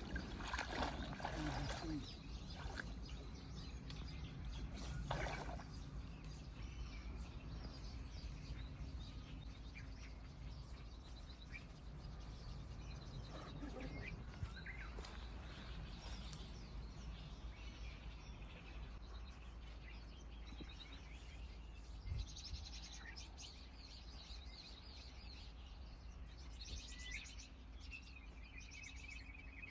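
Small birds chirping over a steady low outdoor background noise, with the chirping growing busier in the last third.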